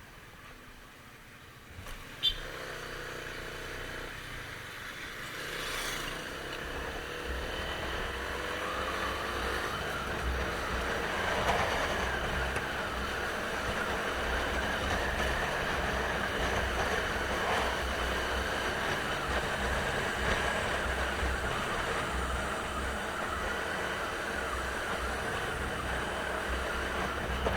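Motorcycle pulling away, its engine pitch rising for a few seconds, then running steadily at speed with wind rumble on the microphone. A sharp click about two seconds in.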